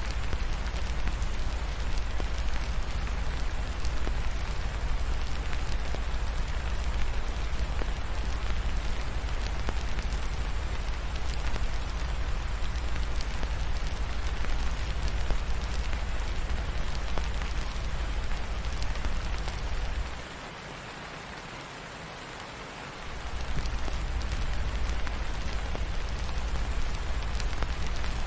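Steady rainfall with a deep rumble underneath and faint crackles from a fireplace. The deep rumble drops out for about three seconds about two-thirds of the way through, then returns.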